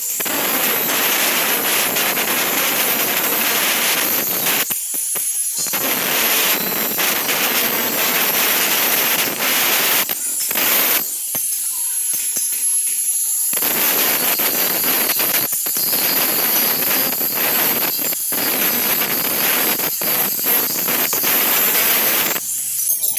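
Stick (arc) welding: the electric arc crackles and sizzles steadily in several runs, stopping briefly about five seconds in, for a couple of seconds near the middle, and again near the end as the arc is broken between welds.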